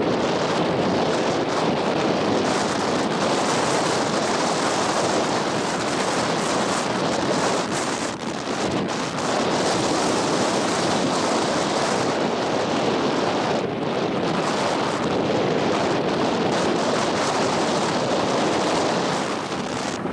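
Strong coastal wind buffeting the microphone: a loud, steady rushing roar that eases briefly twice, about eight seconds in and again near fourteen seconds.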